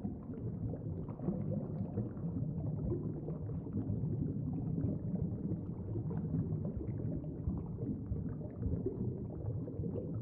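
Underwater ambience: a low, steady rumble with no pitched notes.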